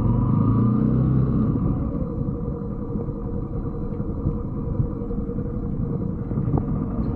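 A 125cc Brixton motorbike engine running under way, with a steady low rumble of wind and riding noise on the microphone; the engine's pitch rises briefly near the start.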